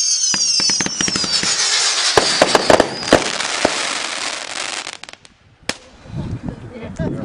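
Fireworks going off: several whistles falling in pitch, then a dense crackling full of sharp pops and bangs that dies away about five seconds in, with one more bang shortly after.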